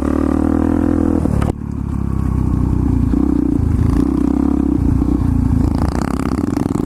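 Single-cylinder motorcycle engine running steadily while riding on a trail, with an abrupt change in the sound about a second and a half in.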